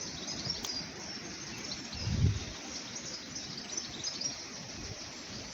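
Birds chirping and singing over a steady outdoor background hiss, with a brief low thump about two seconds in.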